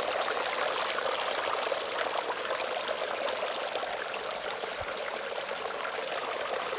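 Steady rush of fast-running water in a mountain river.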